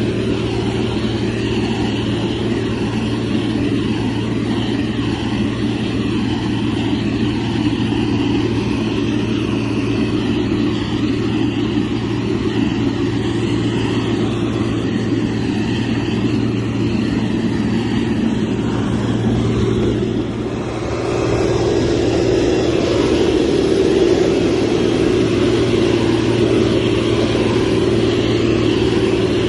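Motor grader's diesel engine running steadily, dipping briefly a little past two-thirds through and then running a little louder.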